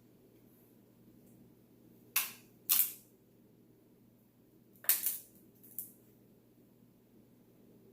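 Crab leg shells cracking open by hand: four short, sharp cracks, a pair just over two seconds in and another pair around five seconds in.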